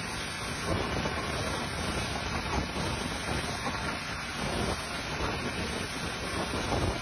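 Pressure washer spraying the front of a truck: a steady rushing hiss of water.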